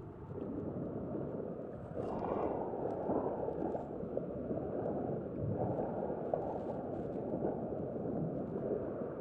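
Wind rumbling on the microphone with sea water washing, a low steady noise that swells and eases every second or two.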